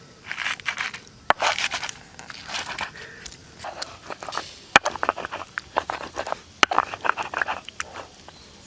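Close-up crunchy chewing and biting, in irregular bursts with a few sharp clicks: someone eating crisp barbecued fish.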